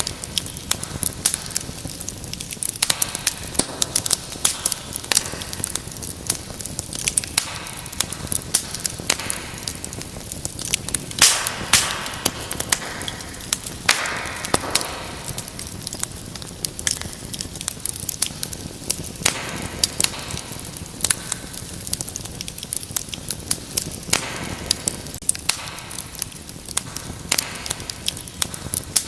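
Fire in a fireplace crackling and popping, with many sharp pops over a steady hiss. About a third of the way through comes a louder flurry of pops with a brief rush of hissing.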